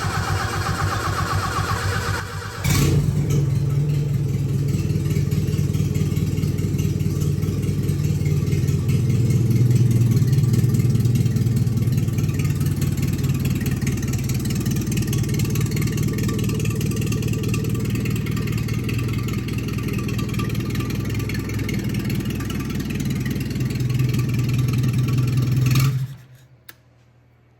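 A freshly rebuilt 1974 Dodge Colt engine is cranked by its starter and catches about two and a half seconds in. It runs unevenly, untuned and with the carburetor still unadjusted, then dies suddenly near the end when given throttle.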